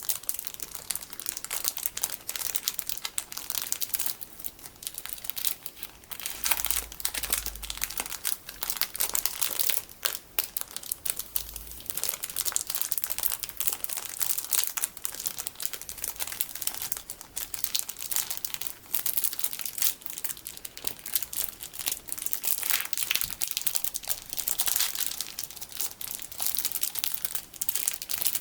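Plastic packaging full of small colorful sticky beads squeezed and handled, giving a continuous, dense crinkling and crackling.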